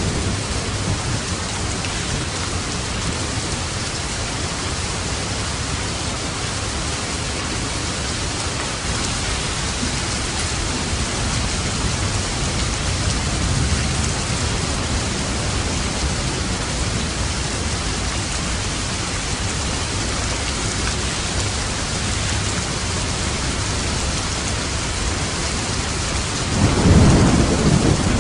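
Steady heavy rain hissing, with low rumbles of thunder underneath; the loudest roll of thunder comes near the end.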